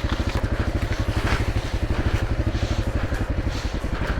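Dirt bike engine running at low revs with an even putter while the bike crawls slowly over rough ground, with a couple of brief clacks about a second and two seconds in.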